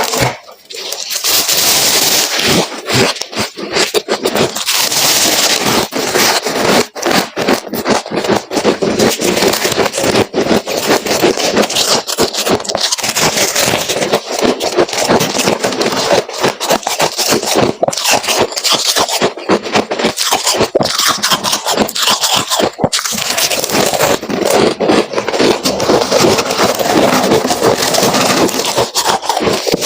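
Freezer frost crunching and crackling as it is bitten and chewed close to the microphone, in a dense, continuous run of crisp crunches.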